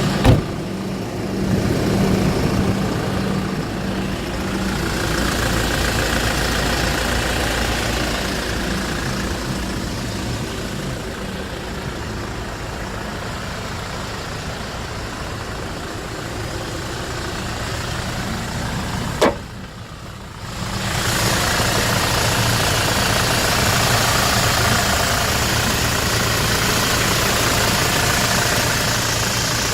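Hyundai Porter II refrigerator truck running at idle, a steady mechanical hum. A sharp click about 19 seconds in is followed by a second or so of quieter sound before the running picks up again.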